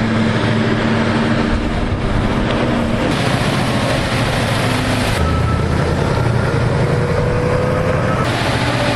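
Heavy-haul truck's diesel engine pulling hard under a load of about 315 tons up a steep grade, with a thin steady whine over the engine. The sound changes abruptly three times, about 3, 5 and 8 seconds in.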